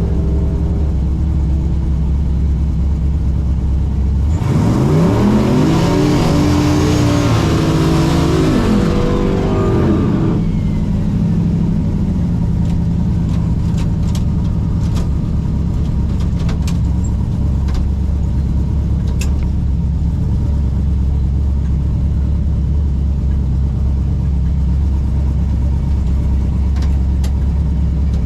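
A car engine rumbles steadily, then about four seconds in it revs hard under acceleration for roughly six seconds, its pitch sweeping up and back down, before it settles back to the steady rumble. A faint falling whine trails off as the burst ends.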